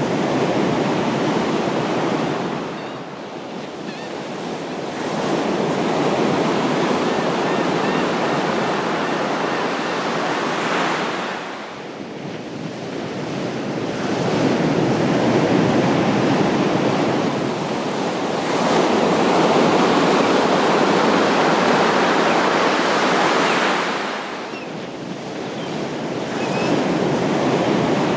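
Ocean surf: waves breaking and washing in, swelling and ebbing in long surges every several seconds, with three dips between the swells.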